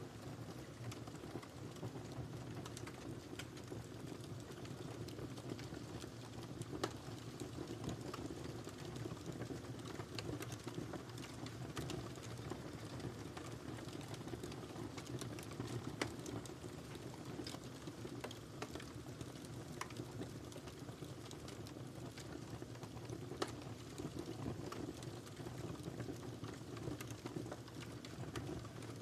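Wood fire burning in a fireplace: a steady low rumble of the flames with frequent small crackles and pops, a few sharper snaps standing out.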